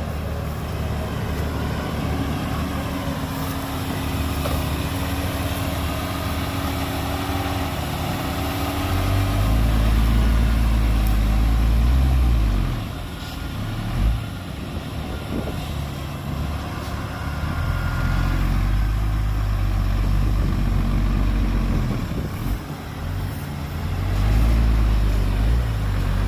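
Heavy diesel earthmoving machinery running, its engine revving up under load in three long surges with a deep rumble between steadier stretches, and a single knock about halfway through.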